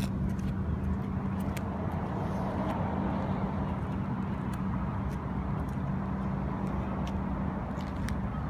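Car engine idling with a steady low hum, with a few faint clicks on top.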